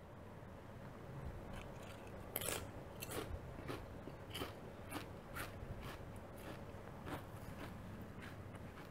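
A potato chip crunching as it is bitten and chewed: sharp crunches about twice a second, starting about two seconds in.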